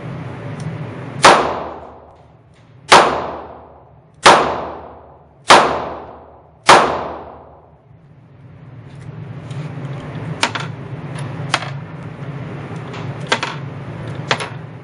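A Ruger SP101 9mm snub-nosed revolver firing five shots, its full cylinder, about a second and a half apart, each shot sharp with a ringing tail. After the string come several fainter sharp clicks.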